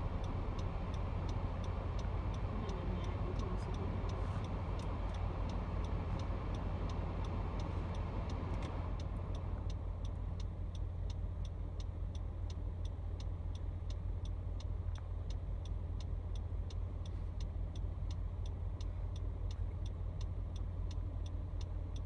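A suburban electric train passing over a level crossing, with a steady low rumble of queued traffic idling; the train noise eases off about nine seconds in. A steady, evenly spaced ticking runs throughout.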